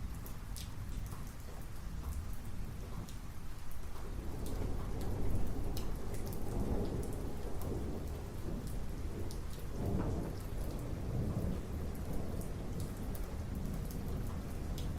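Thunderstorm: a low rumble of rolling thunder that swells about four seconds in and surges again around ten seconds, over steady rain with sharp ticks of individual drops landing close by.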